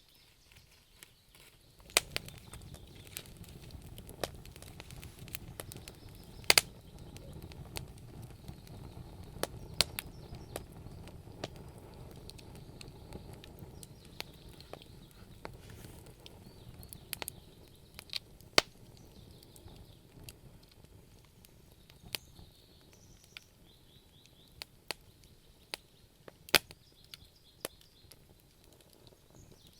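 Wood fire burning in a fireplace: a low rush of flame with irregular sharp crackles and pops from the burning logs.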